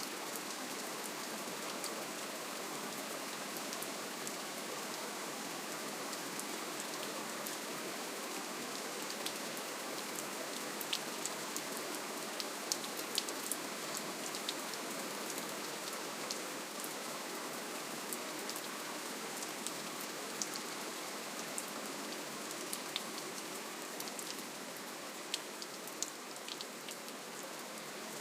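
Steady rainfall: an even hiss of rain with scattered individual drops ticking sharply on a surface.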